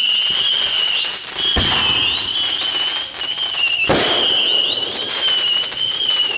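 Fireworks going off: a loud, high, steady whistle holds throughout, with crackling and two heavier bangs, about a second and a half in and about four seconds in.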